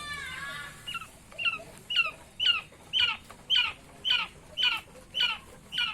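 A quail-type bird calling: a brief chatter, then a series of about ten loud, downward-slurred call notes, roughly two a second, building in loudness over the first few notes.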